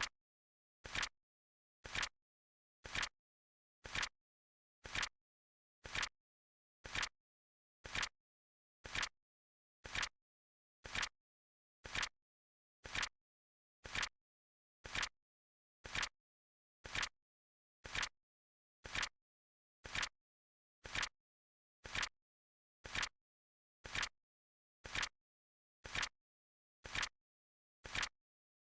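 Flip-clock sound effect: a short flap-like click once every second, evenly spaced, as the timer's digits flip during the countdown.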